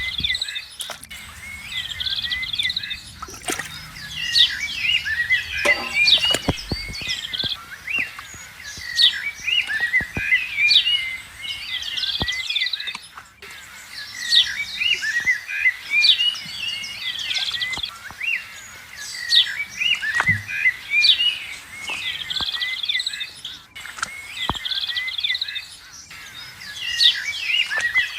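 Many small birds chirping without a break: a dense chorus of short, high chirps and twitters that rises and falls in waves, with a few sharp clicks now and then.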